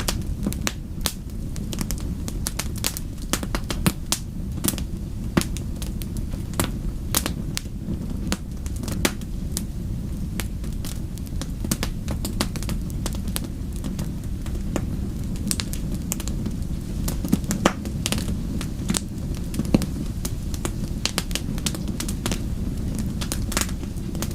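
Wood fire crackling, with many sharp irregular pops over a steady low rumble.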